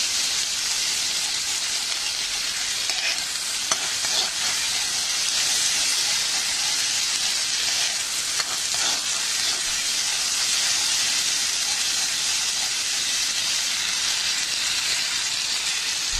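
Ginger-garlic paste sizzling in melted butter in a kadhai, a steady frying hiss, stirred with a spoon that clicks against the pan a few times. The paste is being fried until its raw smell cooks off.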